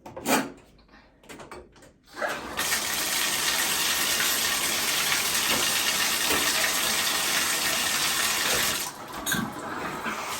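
A knock and a few handling clicks, then about two seconds in the new shower's handheld wand is turned on and its spray runs steadily, dropping a little about nine seconds in.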